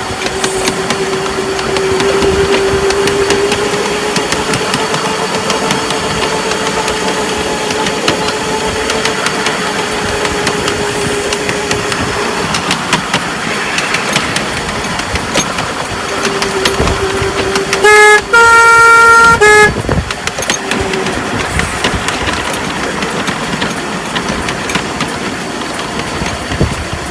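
A 7¼ gauge diesel-electric miniature locomotive running with a steady whine that rises slightly in pitch and fades out about twelve seconds in. About eighteen seconds in its horn sounds loudly, a short toot and then a longer one of about a second.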